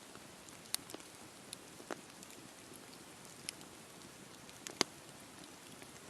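Wood campfire burning with a steady low hiss and scattered sharp crackles and pops, the loudest pop nearly five seconds in.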